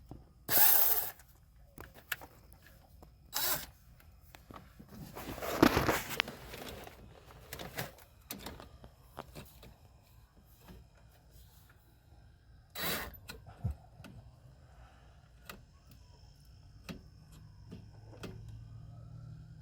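Handling noises of hand tools and parts being worked at an accelerator pedal: scattered clicks and knocks, with a few louder rustling scrapes in the first seven seconds and another at about thirteen seconds. A faint low hum comes in near the end.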